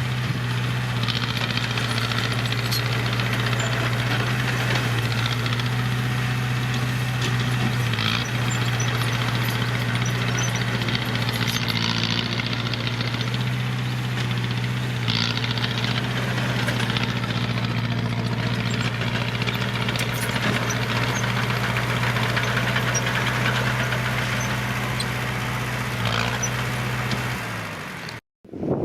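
Heavy diesel earth-moving engine running steadily at a constant speed, with a clattering noise over it. Near the end the engine note sags and the sound cuts off abruptly.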